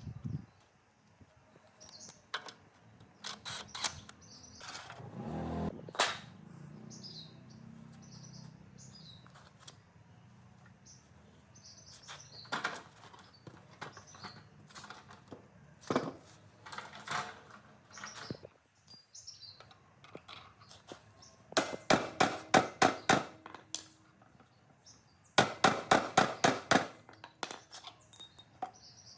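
Workshop work noises: scattered knocks and clicks, then two runs of rapid, even strikes, about five a second, a little after the twenty-second mark and again a few seconds later.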